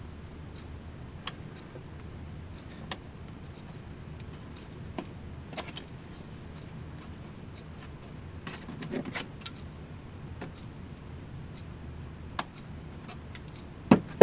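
Scattered light clicks and taps of small tools and parts being handled on a workbench, over a steady low hum, with two sharper knocks just before the end.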